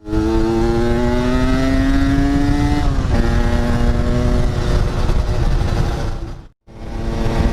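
Yamaha RX-King's 135 cc two-stroke single-cylinder engine pulling under way, its pitch climbing steadily, then dropping sharply about three seconds in as at a gear change, over a heavy low rumble. The sound cuts out for an instant near the end.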